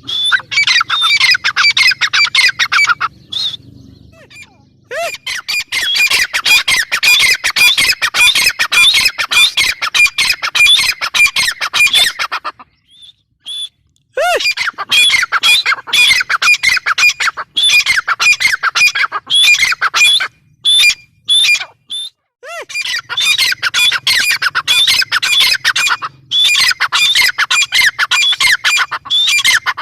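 Grey francolin (teetar) calling: fast runs of shrill, repeated squawking notes in four long bouts separated by short pauses.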